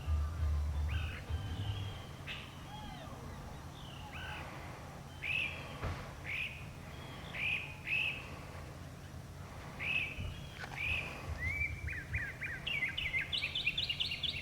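Northern mockingbird singing: the same short, swooping whistled note is repeated many times at intervals, then a fast run of higher notes comes near the end. A low rumble sits under the first two seconds.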